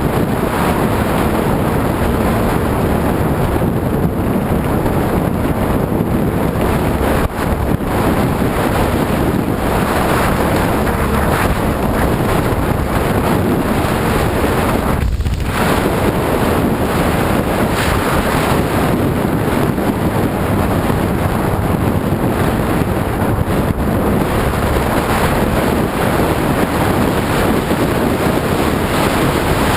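Loud, steady wind rush buffeting the microphone of a motorbike under way, with the bike's running and road noise underneath. The rush dips briefly twice, around a quarter and halfway through.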